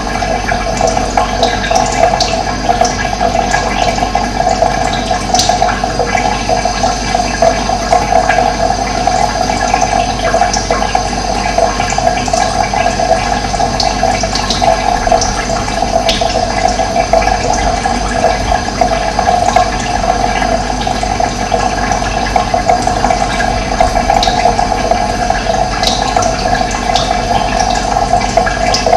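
Running water, a steady unbroken rush, with a few faint short bird calls now and then.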